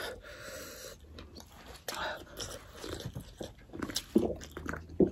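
Close-up mouth sounds of eating: biting into and chewing sausage, with soft wet smacks and small clicks, one sharper click near the end.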